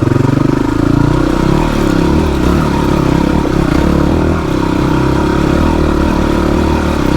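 Off-road motorcycle engine running under load, its revs rising and falling as the throttle is worked over rough ground.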